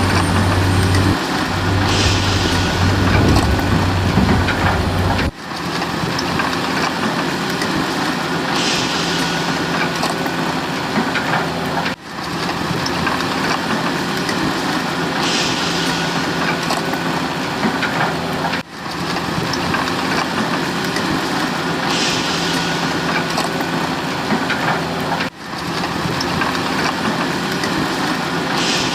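Remote-control model excavator's engine sound running steadily, with a short hiss about every seven seconds and a brief dip in level at the same spacing. A deep low hum drops out about five seconds in.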